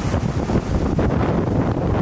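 Strong wind buffeting the microphone in a steady, loud rumble over the noise of big storm waves breaking on Lake Michigan.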